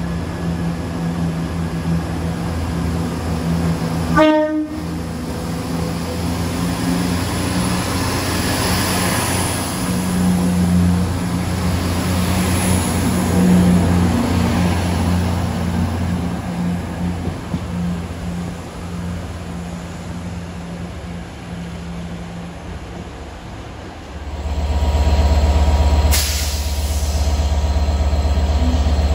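Passenger trains running into and along a station, with a steady mechanical drone and an abrupt break about four seconds in. Near the end this gives way to a louder, heavy low rumble from a Class 67 diesel-electric locomotive's engine running as it stands at the platform.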